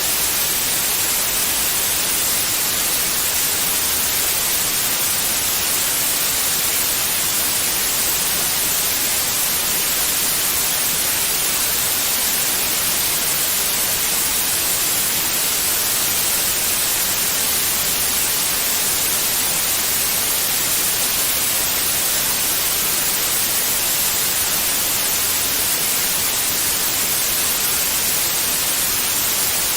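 Steady white noise: an even, unbroken hiss, brighter in the high end, played as a soothing sound for babies.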